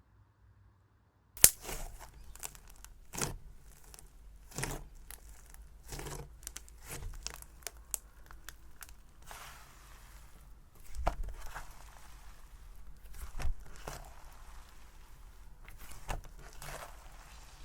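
Cloud cream slime being worked by hand, crackling and tearing with irregular sharp pops. It begins with a loud pop about a second and a half in.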